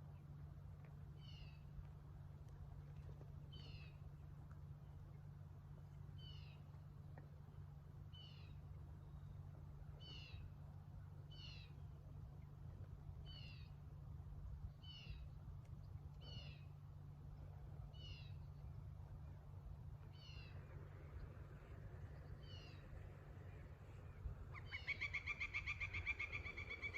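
A bird calling over and over, a short two-part note every one to two seconds, over a steady low hum. Near the end comes a quicker, louder run of calls.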